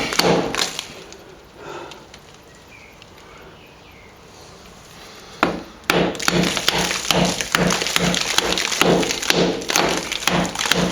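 Hammer blows chipping out hard old plaster along a crack, about three strikes a second. The blows stop for a few seconds after the first second, then start again about five and a half seconds in.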